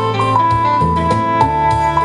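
Live band music, instrumental: a melody of long held notes over a moving bass line.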